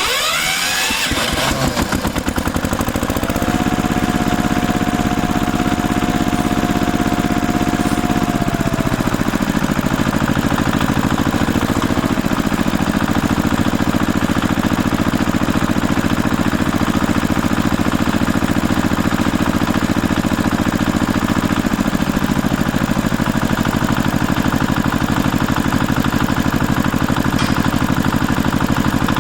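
An engine starts up and then runs steadily at an even idle.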